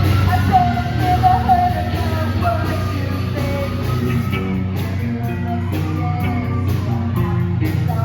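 A live rock band playing loudly, with a voice singing a melody over the first few seconds and sharp drum hits keeping the beat after that.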